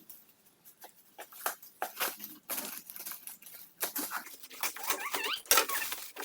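A parcel being opened by hand: scattered crinkling, rustling and ripping of packaging with small clicks, busier in the second half, and a few short rising squeaks near the end.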